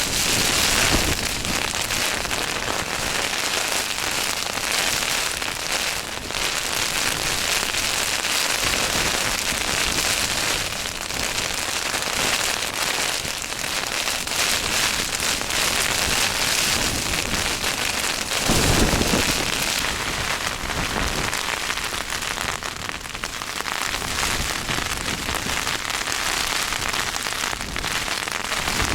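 Steady rain drumming on a tent's flysheet, a dense continuous patter. A brief low rumble comes about two-thirds of the way through.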